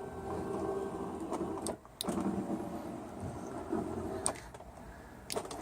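Electric motor of a homemade TV lift running under load, worked from a hand-held controller. It stops with a click just under 2 s in, then runs again for about two more seconds.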